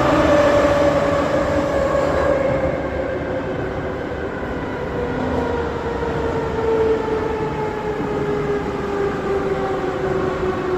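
Moscow Metro 81-717.5M 'Nomernoy' subway train running, heard from inside the car. Its traction motor and gear whine falls slowly and steadily in pitch over a running rumble as the train slows.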